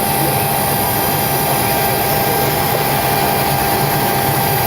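Steady background noise in the cockpit of a Boeing 727-200 parked before engine start: a constant rush of fans and air, with a low hum and a thin, steady high whine.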